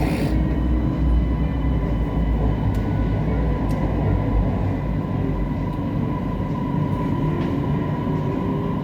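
Siemens Inspiro metro train running, heard from inside the carriage: a steady low rumble of wheels and running gear, with a thin steady whine that grows a little stronger near the end. There is a brief hiss right at the start.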